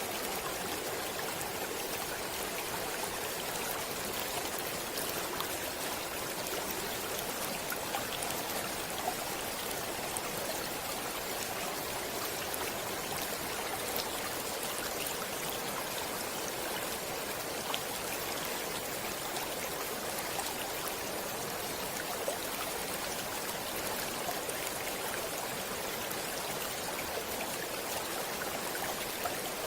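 Stream water running steadily, an even rushing with a few brief splashes.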